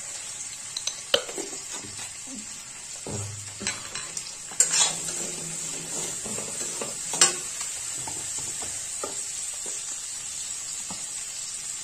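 Potato chunks and onions sizzling as they fry in oil in a steel kadhai, stirred with a metal slotted spoon that scrapes and knocks against the pan. The sharpest knocks come about a second in, near five seconds and about seven seconds in.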